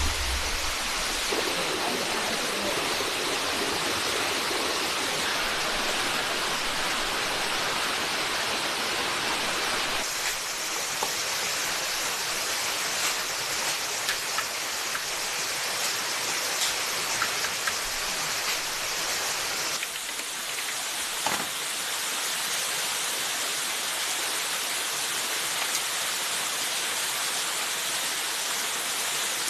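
Steady hiss of water, changing abruptly in character about ten and twenty seconds in, with a few faint clicks and a sharper knock about twenty-one seconds in.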